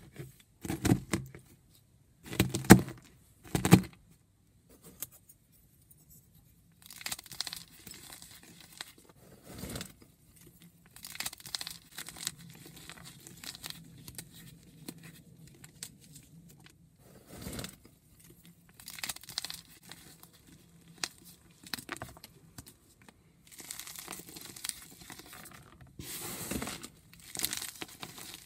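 Blocks of gym chalk being crumbled and shaved close to the microphone: a few sharp crunches in the first four seconds, then long, dry scraping strokes with short pauses between them.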